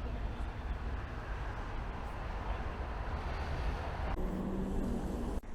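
Wind buffeting the microphone outdoors, a rough rumble that rises and falls. About four seconds in it cuts off abruptly, replaced by a steady low hum.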